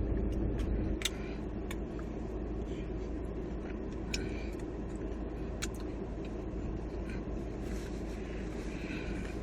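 Eating: chewing with a few sharp clicks, about 1, 2, 4 and 5.5 seconds in, over a steady low rumble.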